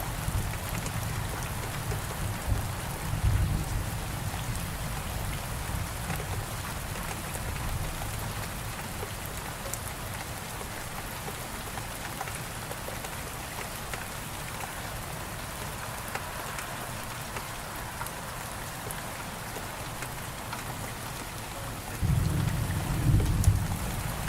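Steady heavy rain falling, with a deep thunder rumble in the first few seconds that fades away. A new rumble of thunder breaks in suddenly near the end.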